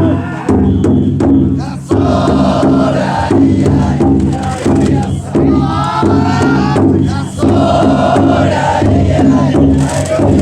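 A crowd of men bearing a taikodai drum float chant festival calls in unison, 'enya enya, yoiyassa'. The phrases repeat about every second and a half.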